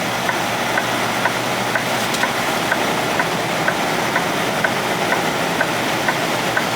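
Semi truck's engine idling steadily, heard from inside the cab, with a sharp regular tick about twice a second over it.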